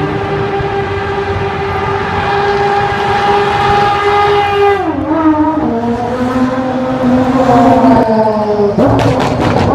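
Aston Martin Vulcan's 7.0-litre V12 engine held at high, steady revs, with its exhaust loud. The pitch drops suddenly about five seconds in, holds lower, then falls again and rises sharply near the end.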